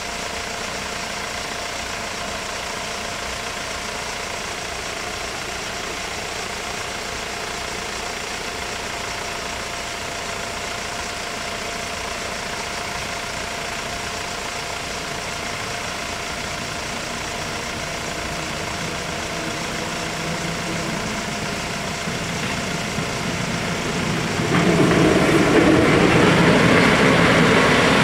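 Car engines idling steadily. About 24 seconds in, an Intercity passenger train arrives and the sound jumps sharply louder as its coaches run over the crossing, wheels clattering on the rails.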